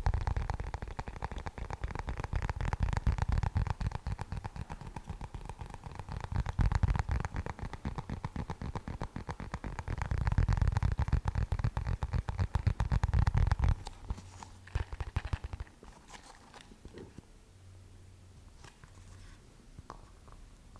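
Rapid tapping and scratching on an ND filter case close to the microphone, with a heavy low rumble, stopping abruptly about fourteen seconds in; only a few light, sparse taps follow.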